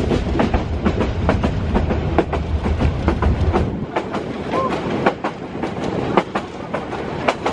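Passenger train running along the track, heard from an open window: the wheels clatter over the rail joints in quick, uneven clicks over a steady rumble. The deep rumble eases about halfway through.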